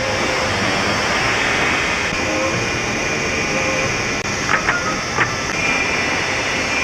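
Cartoon sound-effect racket: a loud, steady hissing and clattering din, like a train letting off steam, with a few sharp clicks about four and a half to five seconds in.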